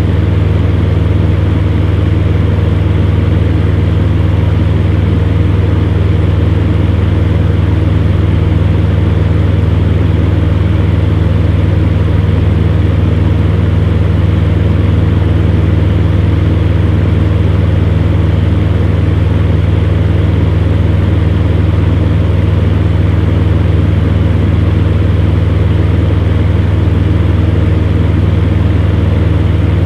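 Electric fan heater running steadily: a constant low hum under an even rush of blown air.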